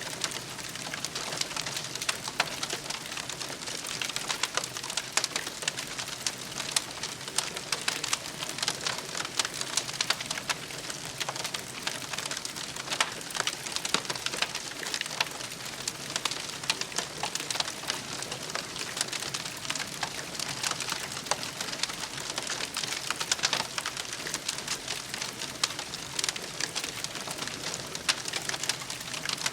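Wood campfire crackling and popping: many irregular sharp snaps over a steady hiss, with no let-up.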